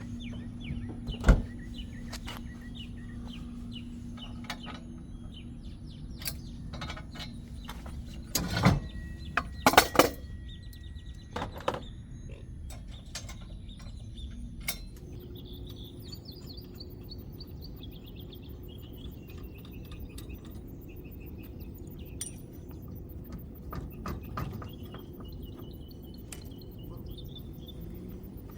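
Scattered metallic clanks and knocks of hitch and rack attachments being handled, over a steady low hum. After about fifteen seconds the knocks thin out and birds chirp in the background.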